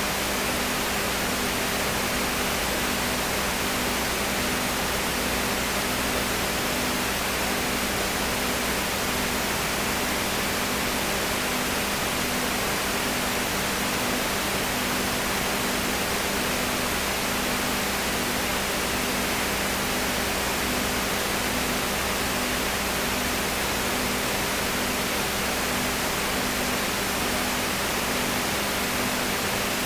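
Steady hiss with a low hum under it and a faint tone that pulses a little more than once a second.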